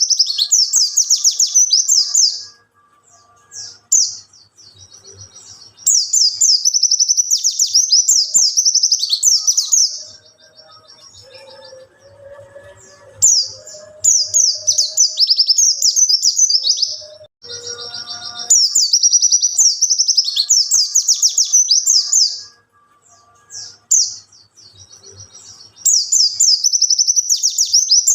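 Wild white-eye (pleci) song: rapid, high twittering phrases in bouts of a few seconds, about five bouts with short pauses between them.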